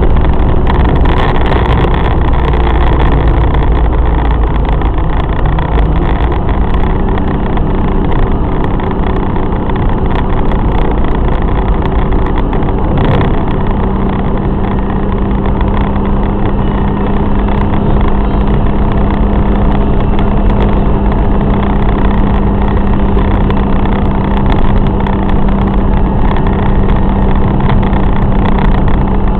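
BMW E30's M50B20 2.0-litre straight-six running steadily while the car drives, with road noise. The engine note steps up slightly about six seconds in and then holds steady.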